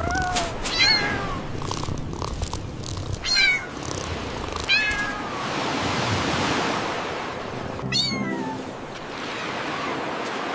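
Several short, high-pitched kitten mews, each bending in pitch, over a rushing hiss that swells in the middle and again near the end.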